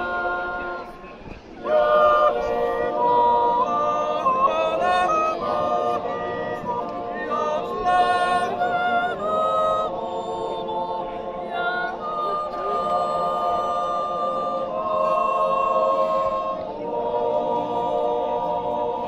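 Swiss yodel choir singing unaccompanied in several-part harmony, long held chords with quick step-like pitch changes in the upper voice. The singing drops away briefly near the start, then the full choir comes back in.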